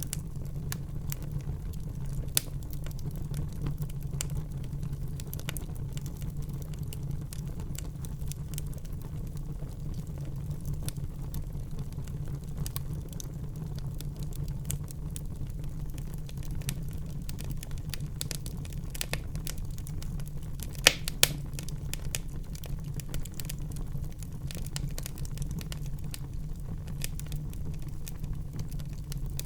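Fire burning in a fireplace: a steady low rumble of the flames under constant small crackles, with sharper pops here and there. The loudest is a pair of pops close together about two-thirds of the way through.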